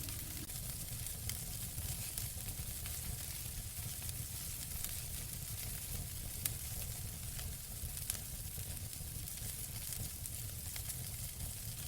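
Fire burning in a fireplace: a steady crackling hiss with a low rumble, dotted with frequent small pops and a couple of sharper snaps about halfway through.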